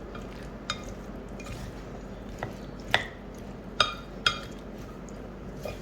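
A spoon clinking against a bowl about five times while stirring wet, juicy rojak salad, each clink short with a slight ring, over a low steady hum.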